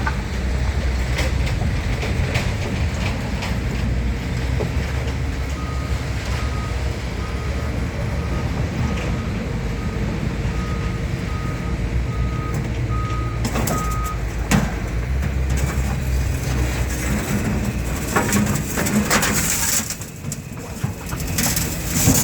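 A diesel truck engine runs steadily while a reversing alarm gives a string of short, even beeps, about two a second, for several seconds. The beeping stops and a few metal clunks and knocks follow, and the engine noise falls away near the end.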